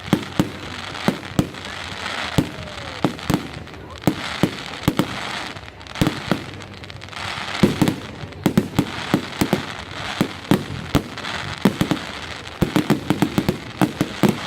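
Fireworks display: aerial shells bursting with sharp bangs, some echoing, at irregular intervals over a continuous crackle. The bangs come in a rapid cluster near the end.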